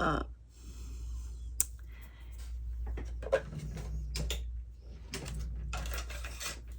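Handling sounds at a craft table: paper and cardstock rustling with light taps, and one sharp click about one and a half seconds in, over a steady low hum.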